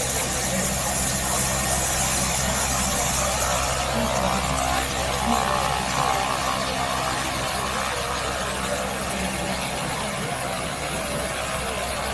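Air Tractor AT-402T's PT6A turboprop engine running steadily, a constant drone with a high hiss.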